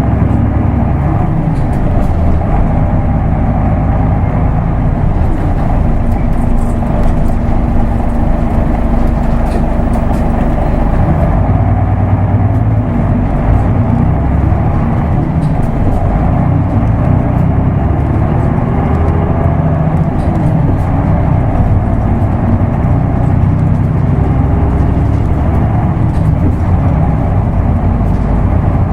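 Isuzu Erga Mio bus's diesel engine running under way, heard inside the bus. The engine note rises and falls as the manual-gearbox bus drives along.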